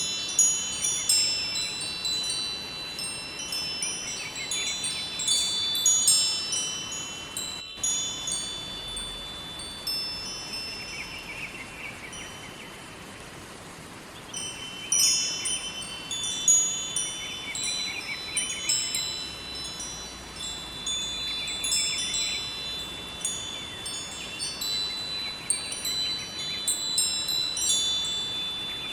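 Wind chimes ringing in irregular clusters of high, lingering tones, thinning to a few faint rings around the middle before picking up again, over a steady rush of river water.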